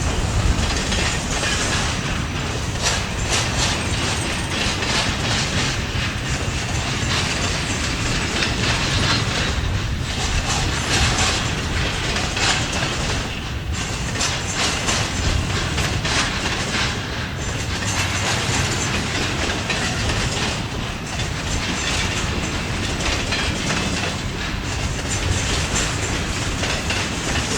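Canadian Pacific freight train rolling past, its wheels clicking steadily over the rail joints over a continuous rumble.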